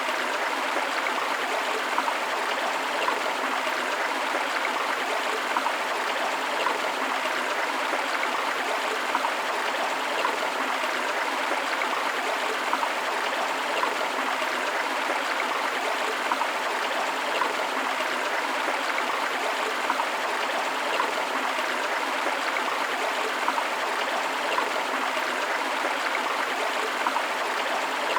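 A river or stream flowing steadily over rocks: an even rush of water with small splashes and gurgles, no deep rumble.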